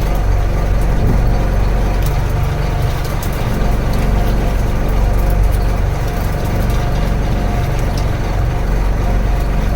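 Wooden fishing boat's engine running steadily: a continuous low drone with a faint steady whine above it.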